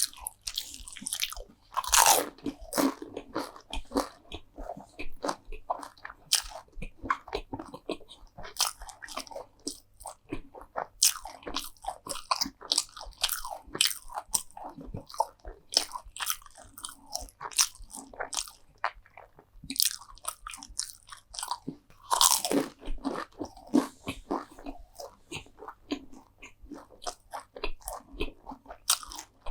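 Close-miked eating: crisp bites and crunchy chewing of crunchy food, with two louder bites, one about two seconds in and another about two-thirds of the way through.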